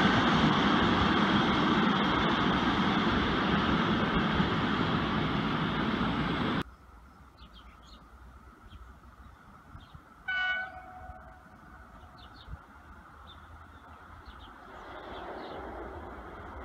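A train passing at speed with a steady rush of wheel and rail noise, which cuts off suddenly about two-thirds of the way in. After a quiet stretch, a single short horn blast from an approaching train sounds, and near the end the rumble of that train starts to rise.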